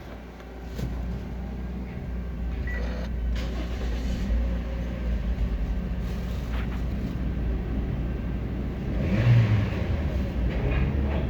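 Toyota 1NZ-FE 1.5-litre inline-four engine starting about a second in, then idling steadily with even revs. It runs briefly louder near the end.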